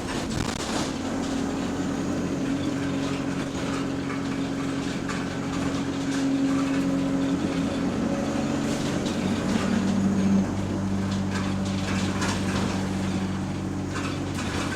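London service bus heard from inside the passenger saloon: the engine and drivetrain run with a steady low hum whose pitch rises for a few seconds and then drops suddenly about ten seconds in, as the bus changes speed. Body rattles click over the top.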